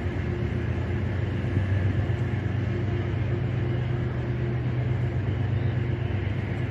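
Train locomotive engine running steadily at a station: a continuous low hum with a steady higher tone over it.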